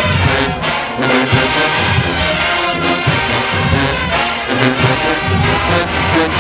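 A marching band's brass section playing loudly, with trombones and trumpets over a pounding low beat, in a fast, punchy stand tune.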